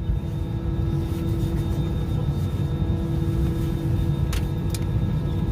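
Cabin noise inside an Airbus A319 airliner: the steady low rumble of the engines and airflow, with a steady hum tone over it. Two faint clicks come near the end.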